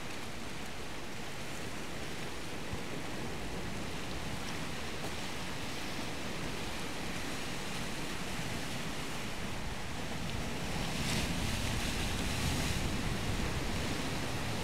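Sea surf washing steadily, with a louder wave rushing in about eleven seconds in.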